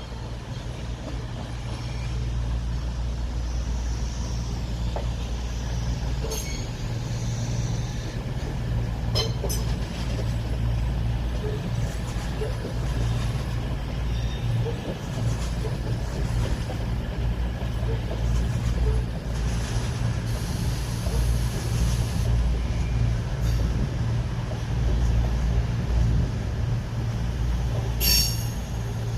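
Train running at the station platform: a steady low rumble, with a few sharp clicks and a short high-pitched burst near the end.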